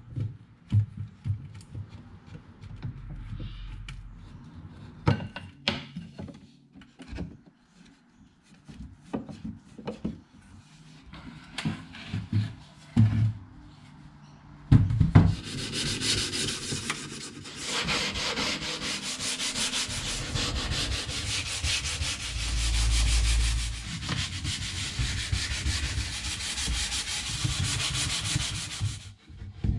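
Wood being sanded: scattered clicks and knocks of wooden parts being handled, then from about halfway a steady sanding noise that stops shortly before the end.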